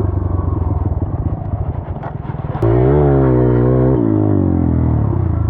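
Dirt bike engine running at low revs, then revved hard about two and a half seconds in, its pitch rising and falling back, before it settles to lower revs about four seconds in.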